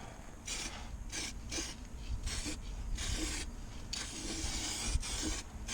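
A paintbrush brushing red oxide primer onto a car's steel chassis rail: a series of uneven, hissing strokes with short pauses between them.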